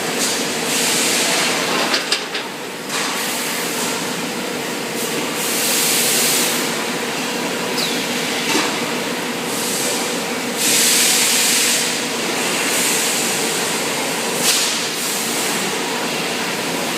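Automatic wet enamel coating machine running with a steady mechanical drone and a constant hum. Bursts of hissing about a second long come every few seconds, and there are a few sharp clanks.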